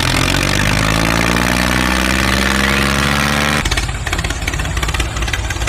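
A small engine running steadily at idle. About two-thirds of the way through, the sound changes abruptly to a rougher, choppier running.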